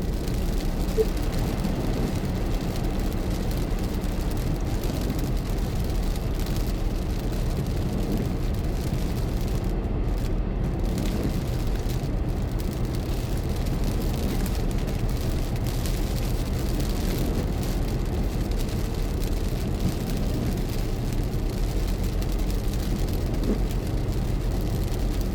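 Car driving along at a steady pace, with a continuous low rumble of engine and tyre noise on the road.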